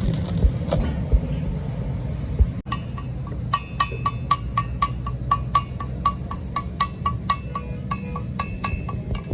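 Rhythmic hammer blows on metal, each ringing out, about three a second from around three seconds in, over a steady low machine hum.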